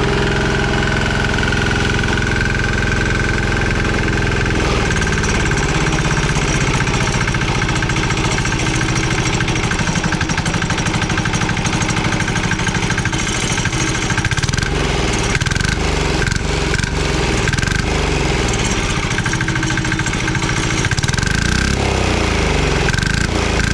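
Small 196cc single-cylinder diesel engine running with a rapid, rhythmic diesel clatter just after a cold start. Its speed shifts about five seconds in and again near the end.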